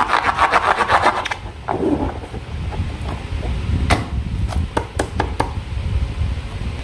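Slime being worked by hand, a quick run of sticky, crackling clicks for about the first second and a half, then a few scattered clicks.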